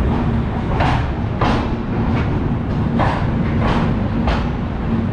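Passenger express train rolling slowly into a station: a steady low rumble, with the wheels clacking over rail joints about once every two thirds of a second.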